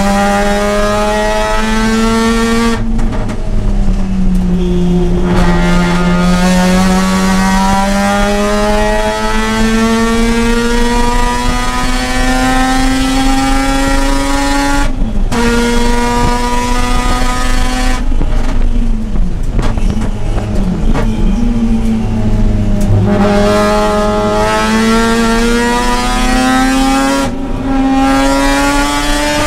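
Mazda RX-8's two-rotor Renesis rotary engine under hard acceleration on track, its pitch climbing steadily through each gear. Four times the note drops and briefly thins as the driver lifts, shifts or brakes, then climbs again.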